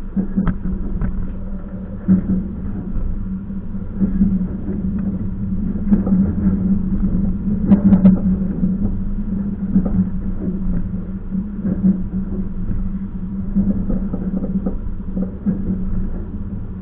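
Passenger train running, heard from inside the carriage: a steady low hum with scattered short knocks and rattles.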